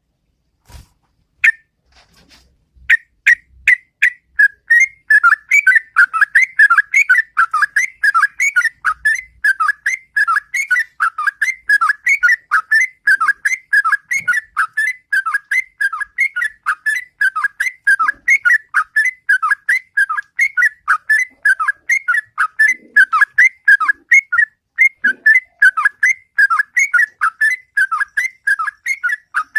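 Sooty-headed bulbul (trucukan) singing its long, loud 'ropel' song: a few separate notes, then, from about three seconds in, an unbroken run of quick, bending notes at about three or four a second.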